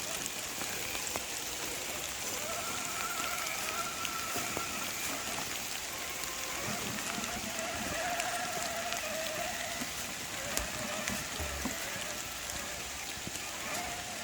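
Steady rain falling, a dense patter of drops, which is just starting to ease off.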